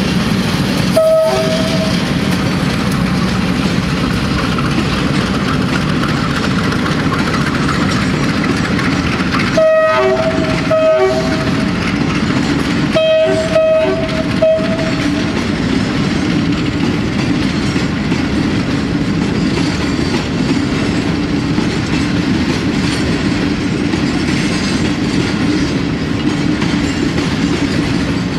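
Diesel freight train rumbling past, its locomotive sounding its horn: a short blast about a second in, two short blasts around ten seconds in, and a longer blast near fourteen seconds.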